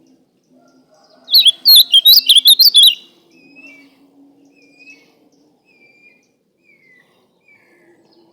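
Ultramarine grosbeak (azulão) singing: one loud, rapid phrase of high warbled notes about a second in, lasting under two seconds, followed by a string of faint, short whistled notes.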